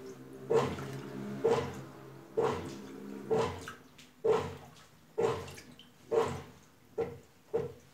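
Brastemp washing machine washing on its wool/extra-delicate cycle: the motor turns the wash back and forth in strokes about once a second, each a short motor whir with water sloshing. The strokes come quicker near the end.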